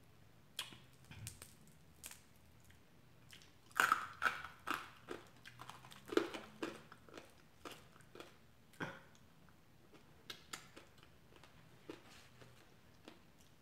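A person chewing and biting food close to the microphone, with a run of louder bites and chews about four seconds in that thins out after about nine seconds into soft, scattered mouth clicks.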